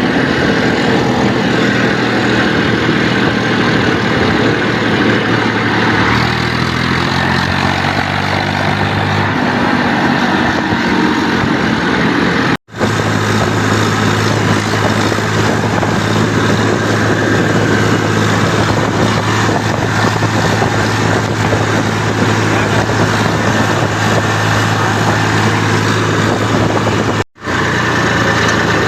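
Eicher 380 tractor's diesel engine running steadily, its speed shifting between about 6 and 9 seconds in. The sound drops out for an instant twice.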